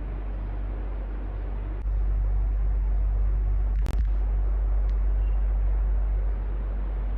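Electric fan running with a steady whoosh and a strong low rumble. The rumble steps up about two seconds in and eases back near the end, with a brief click about four seconds in.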